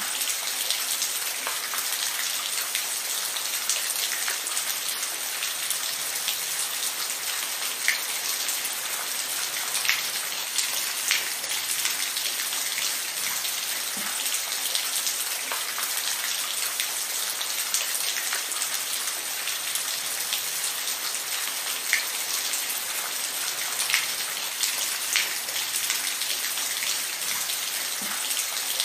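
Steady rainfall, a constant hiss with individual drops ticking and pattering on a surface now and then.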